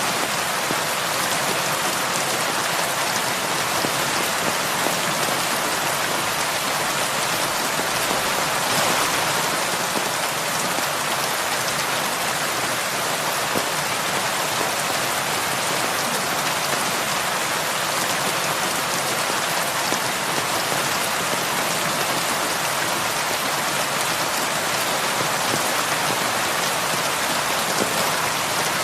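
Heavy rain falling steadily, a dense, even hiss of many drops striking surfaces.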